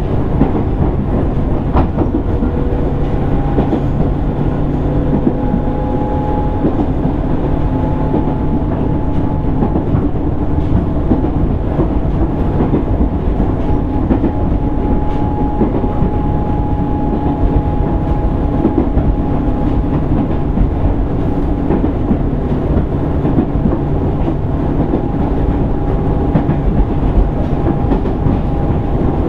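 Running noise inside a JR East 205-600 series motor car (MoHa 204) travelling along the line: a steady low rumble of wheels on rail with occasional clicks from rail joints, and a few faint level hums from the drive gear and motors.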